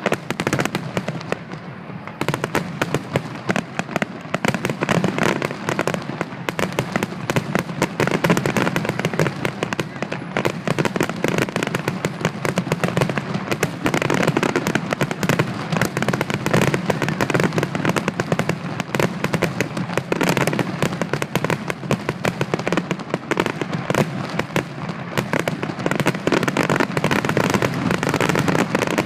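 Fireworks grand finale barrage: a dense, unbroken run of rapid bangs and crackling shell bursts going off one on top of another.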